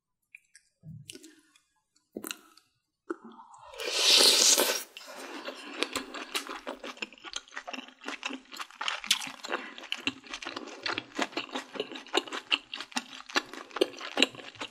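Close-miked chewing of a spoonful of pork from soup: rapid wet smacks and crunches. About four seconds in, a loud breathy rush lasting about a second comes just before the chewing starts.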